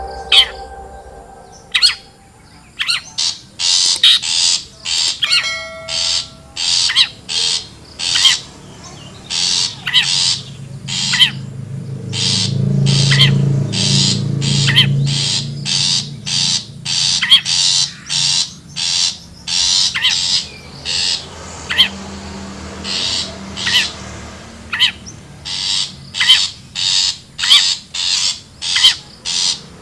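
Long-tailed shrike (cendet) giving harsh, scolding calls in a rapid series of about two a second, starting a couple of seconds in.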